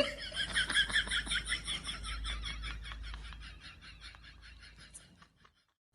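An animal making a rapid run of short, high chirping calls, about eight a second, fading over about five seconds before cutting off.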